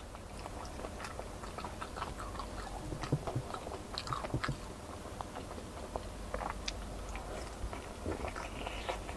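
A person biting into and chewing fried chicken close to the microphone: many small, scattered clicks and crackles of a mouth working on food.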